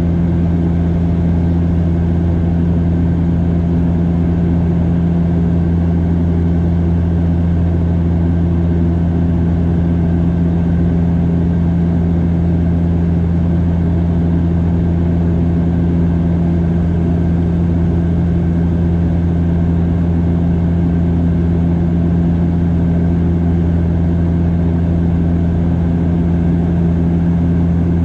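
Cabin noise of a Bombardier DHC8-Q400 turboprop in flight: the steady, loud drone of its engines and propellers, a deep hum with several steady tones above it that do not change.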